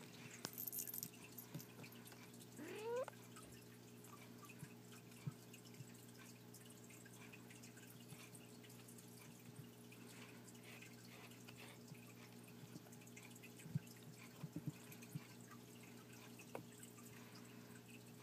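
Four-week-old kittens play-fighting: faint scattered taps and scuffles, with one short rising kitten mew about three seconds in, over a low steady hum.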